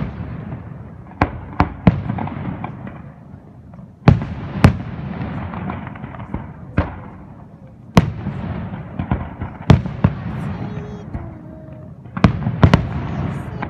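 Fireworks display: aerial shells bursting with sharp bangs every second or two, each followed by a fading rumble and crackle as it echoes. A quick cluster of bangs comes near the end.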